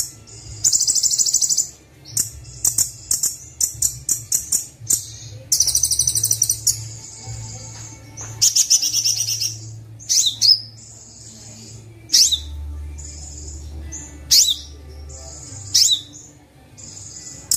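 Kolibri Wulung (sunbird) song played back as a training recording: rapid high chirps and trills, buzzy held phrases, and several sharp downward-sweeping notes, over a steady low hum.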